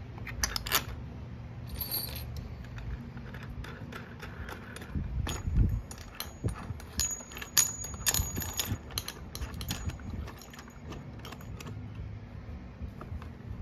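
Steel washers and a nut clinking and clicking against a threaded steel axle rod as they are fitted by hand, in scattered irregular clicks over a steady low hum.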